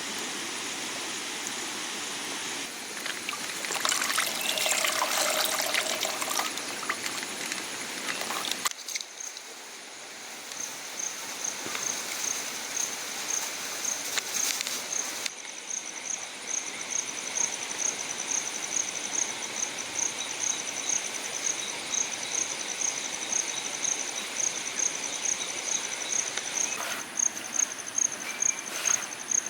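Water pouring and trickling for the first several seconds. Then, after a break, an insect chirps in an even rhythm of about two chirps a second over a steady background hiss.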